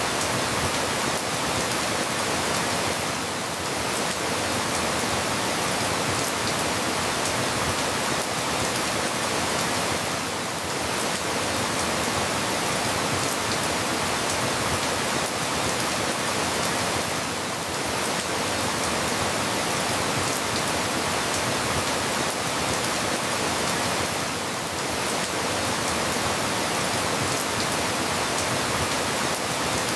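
Steady rain falling, an even hiss across the whole range, dipping slightly in loudness about every seven seconds.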